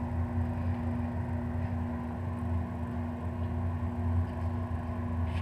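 Heat pump water heater's compressor and fan running, a steady even hum with one constant tone over a low rumble.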